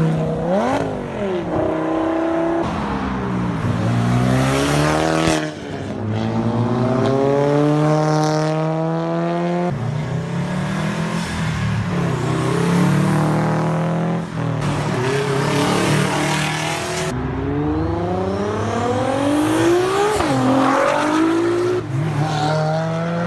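Cars accelerating hard one after another, their engines revving up through the gears: the pitch climbs, drops at each shift and climbs again, several times.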